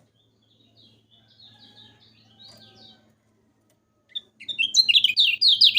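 Lemon-bellied white-eye (kecial kuning) singing: soft, scratchy twittering at first, then from about four seconds a loud, fast run of sharp downslurred chirps, several a second, over a faint electrical hum.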